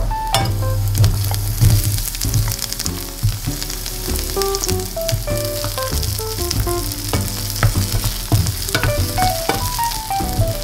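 Garlic cloves and diced onion sizzling and crackling steadily in hot oil in a stainless steel frying pan, stirred with a wooden spatula. A soft melody plays underneath.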